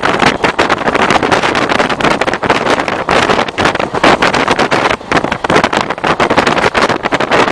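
Running noise of a DEMU diesel-electric train crossing a river bridge, heavily buffeted by wind on the microphone, with irregular knocks throughout.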